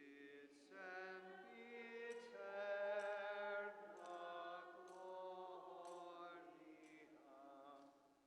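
Slow, chant-like church singing: sustained sung notes that change pitch slowly, swelling after about a second and fading away near the end.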